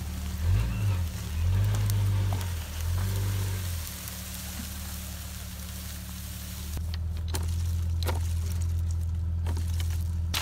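1996 Jeep Grand Cherokee ZJ engine pulling a small tree across grass on a tow chain. Its pitch rises and falls a few times in the first four seconds, then it runs steadily at idle. A few sharp clicks come in the second half.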